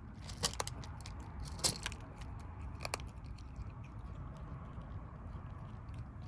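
Stray kittens chewing and crunching their food: irregular sharp crunches and clicks, with a few louder ones in the first three seconds.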